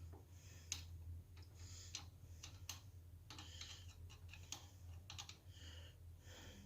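Faint, irregular clicks and short scrapes of a screwdriver turning the screw of a hose clamp to tighten it onto a new fuel line. A low hum runs underneath.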